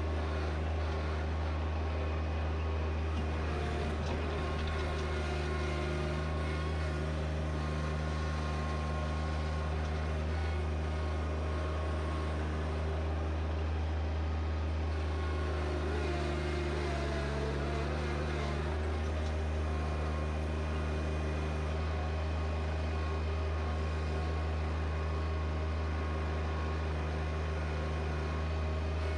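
John Deere 1025R compact tractor's three-cylinder diesel engine running steadily, with a brief dip in the engine note about two-thirds of the way through.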